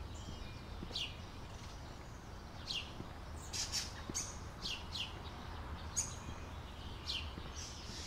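Songbirds calling: a string of short, high notes, each falling in pitch, coming irregularly about once a second, over a low steady rumble.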